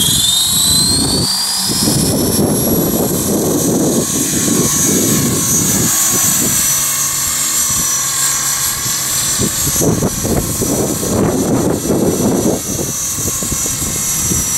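Exceed Blueray 450 electric RC helicopter: its motor and rotor whine rises as the head spools up in the first second, then holds steady in flight. Heavy wind buffets the microphone underneath.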